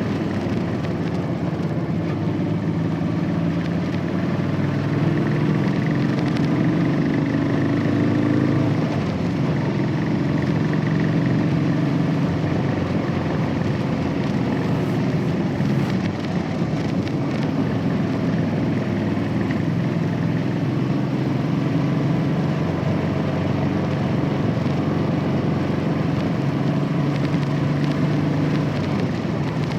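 Royal Enfield Classic 500's single-cylinder engine running on the move through its stock exhaust, a steady thudding note that rises and eases slightly in pitch about five to nine seconds in.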